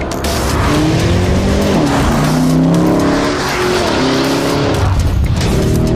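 Lamborghini Urus's twin-turbo V8 accelerating hard, its pitch climbing and then dropping back several times as it shifts up through the gears.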